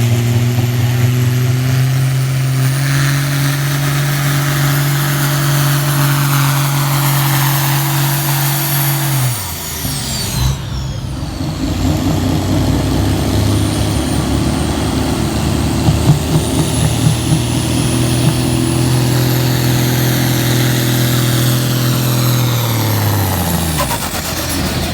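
Farm stock pulling tractor's turbocharged diesel engine held at full throttle under load, its pitch steady. It falls away suddenly about nine seconds in. After a brief break a second full-throttle pull runs with a thin high turbo whistle over it, and the engine winds down near the end.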